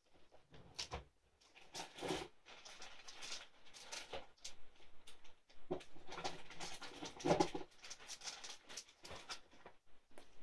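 Faint, irregular tapping and rustling of hands working on a paper-clay craft piece while it is being coloured.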